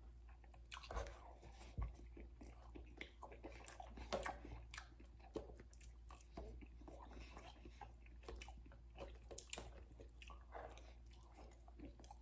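A man biting and chewing mouthfuls of omelette, with faint, irregular clicks and smacks of the mouth.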